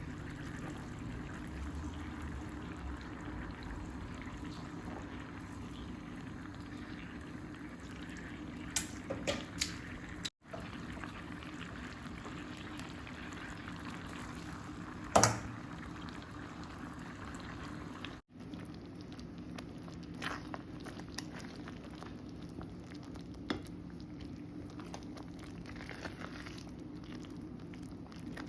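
Food simmering and bubbling in a cooking pot, a steady bubbling with a few sharp clicks and knocks of a utensil, the loudest about halfway through.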